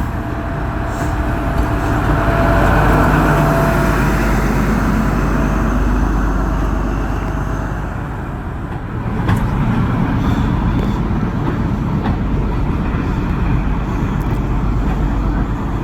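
Class 43 HST diesel power car running, a steady low drone with a thin whine over it for about the first half; it eases off around eight seconds in and picks up again a second later.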